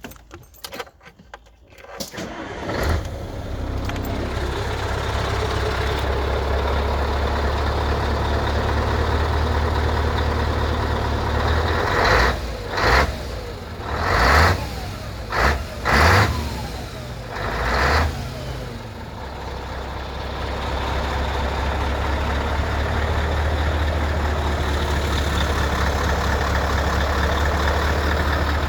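Scania 143/500 truck's 14-litre V8 diesel starting up after a few clicks and settling into a steady idle. About ten seconds later it is revved in five short blips, then it drops back to idle.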